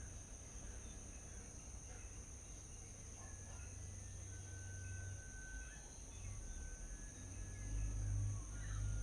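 Faint bird chirps and calls, among them one short whistled note about halfway through, over a steady high-pitched insect drone and a low rumble that grows louder near the end.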